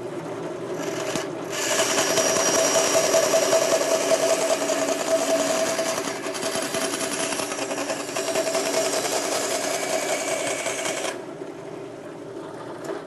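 Vertical bandsaw running, its blade cutting through a piece of stock with a steady rasping scrape. The cut stops about eleven seconds in, leaving the motor and blade running on their own.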